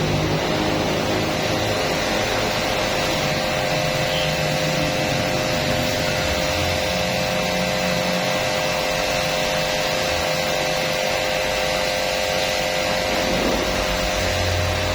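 A machine's motor running steadily: an even hum with several constant tones, no change in speed.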